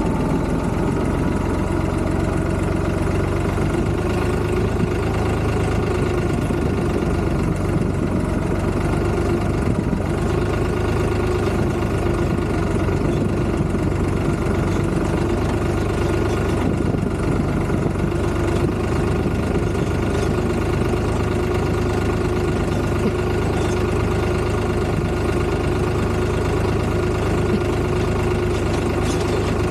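Tractor diesel engine running steadily at constant speed, with no change in revs.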